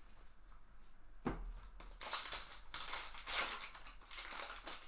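Crinkling and rustling of a plastic trading-card pack wrapper being handled and torn, with a single knock about a second in.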